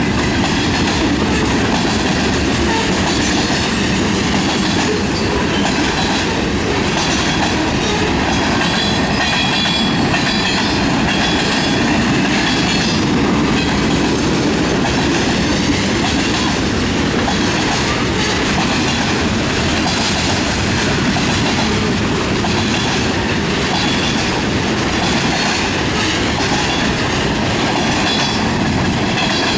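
Freight cars of a manifest train rolling past at steady speed: continuous wheel-on-rail rumble and clatter, with faint high metallic tones from the wheels.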